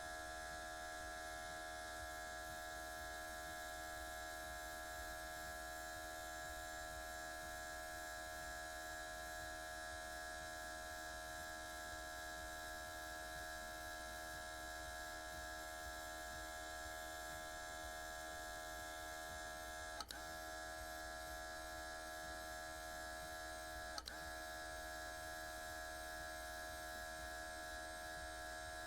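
Small cordless airbrush compressor motor running with a steady electric whine. Two short clicks come about four seconds apart in the later part.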